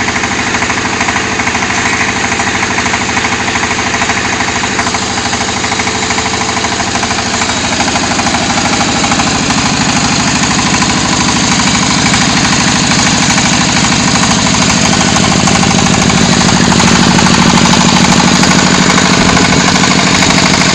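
Diesel engine of a QT4-30 hydraulic concrete hollow block machine running with a fast, even pulse; about halfway through its note rises and it grows a little louder.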